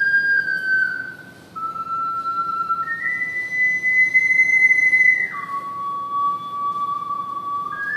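Triple ocarina playing a slow melody of long held notes, one pure whistle-like tone at a time. There is a brief breath gap about a second and a half in, and a slide down from a high note to a low one about five seconds in.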